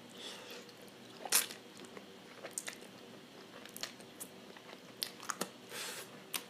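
Close-miked mouth sounds of a person chewing food: soft wet smacks and clicks every second or so, with a sharper click about a second and a half in and a brief hiss near the end.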